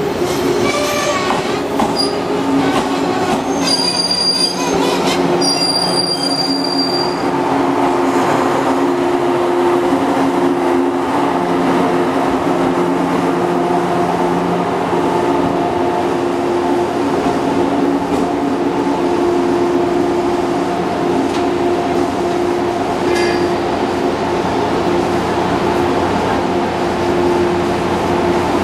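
115-series electric train pulling slowly into a station platform: high-pitched brake and wheel squeal through the first several seconds, then a steady hum and rumble from the train as it comes to a stand.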